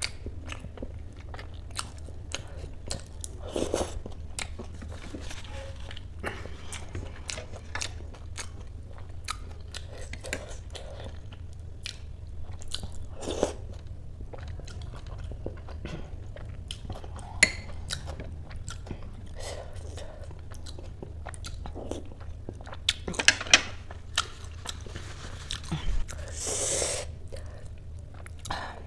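Close-miked chewing of a spoonful of ghugni, spiced yellow peas with raw salad on top, full of small clicks and crunches over a steady low hum. There are a few sharper clicks later on and a brief hiss near the end.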